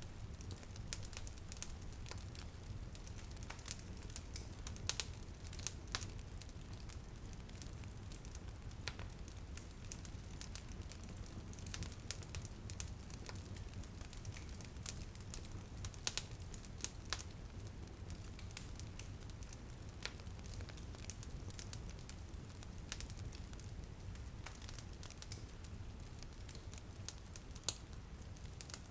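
Fire in a fireplace crackling, with frequent irregular sharp pops and a few louder snaps over a steady low rumble.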